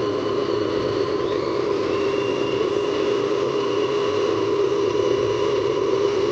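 Radio-controlled scale dump truck driving: a steady mechanical hum from the electric motor and gearbox, with thin high whines above it that shift in pitch about a second or two in.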